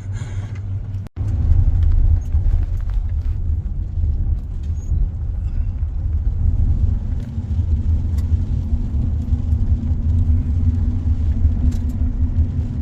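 Van engine and tyres rumbling low and steady while driving a rough dirt trail, with scattered light knocks and rattles. The sound cuts out briefly about a second in.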